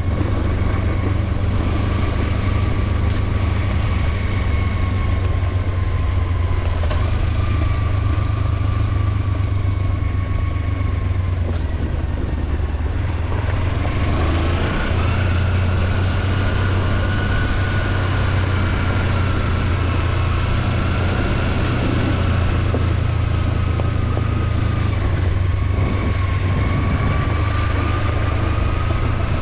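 Kawasaki Versys-X 300's parallel-twin engine running steadily under way, with a thin high whine that drifts up and down with engine speed and steps up around the middle.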